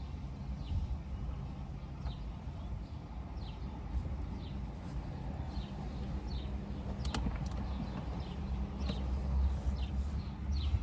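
A small bird chirping over and over in short falling notes, over a steady low hum, with one sharp click about seven seconds in.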